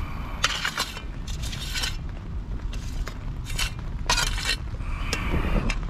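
A digging tool scraping through soil in a string of short, uneven strokes, about seven in all, as earth is worked over a small grave.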